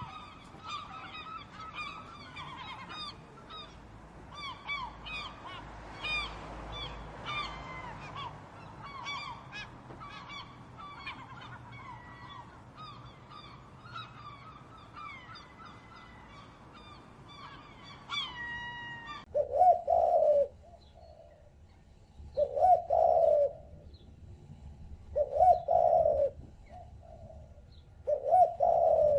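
A flock of birds calling over one another with many short pitched calls. About two-thirds of the way in this changes to four loud, low calls, each about a second long and about three seconds apart.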